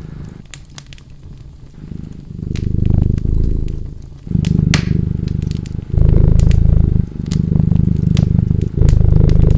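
Cat purring in low stretches of one to two seconds with short breaks between them, with a fireplace fire crackling and popping over it. The purring is absent for about the first two seconds.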